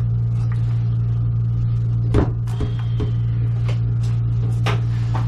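A steady low machine hum, with a few light clicks and knocks, the sharpest about two seconds in.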